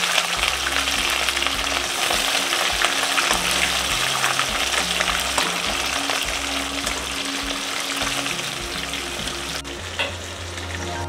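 Food frying in hot oil in a pan: a steady sizzle full of fine crackling spatter, with a single short tap about ten seconds in.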